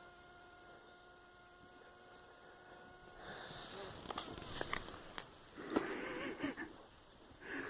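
A dog snapping its jaws at horseflies: a run of quick bites, clicks and snuffles, starting about three seconds in after a steady high-pitched tone.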